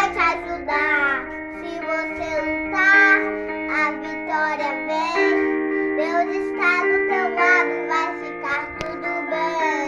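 A child singing a song with an instrumental backing of sustained, held chords, the voice gliding between notes in phrases that break every second or so.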